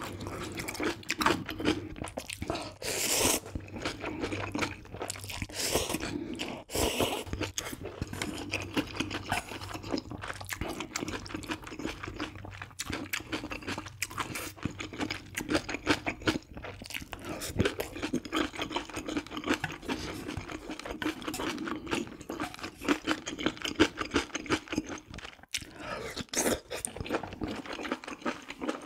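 A person chewing and crunching food close to the microphone, with a few louder crunchy bites about 3, 7 and 26 seconds in.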